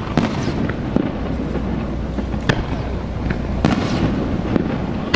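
Aerial fireworks shells bursting: a string of sharp bangs about one a second over continuous background noise.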